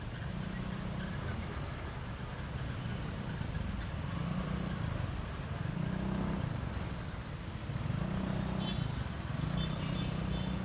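Honda ADV150 scooter riding on the road: a steady low engine and road rumble, mixed with wind noise on the microphone, that swells and eases several times.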